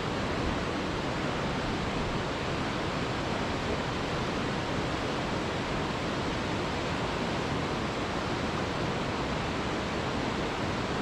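Steady, unbroken rushing of a waterfall, an even noise that does not change.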